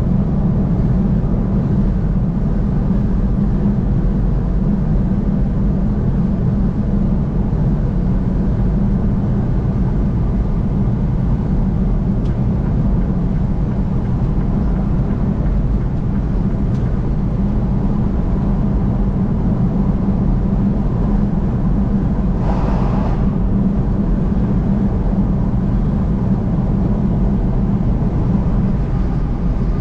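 Steady road and engine noise of a vehicle cruising on the interstate, a continuous low drone. About 22 seconds in there is a brief hiss, like a short rush of air or spray.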